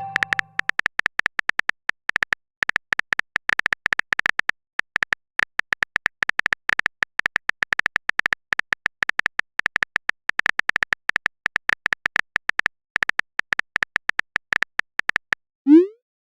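Smartphone keyboard typing sound effect: a long run of rapid, irregular clicks, stopping near the end.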